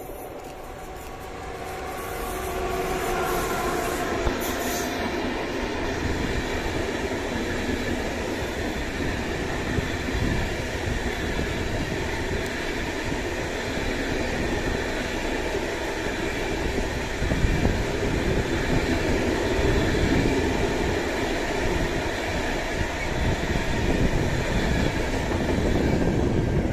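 Electric-hauled freight train of container wagons passing close by. There is a whining tone in the first few seconds as the locomotive goes by, then the steady rolling and rumbling of the wagons' wheels on the rails, growing louder over the first couple of seconds and staying loud.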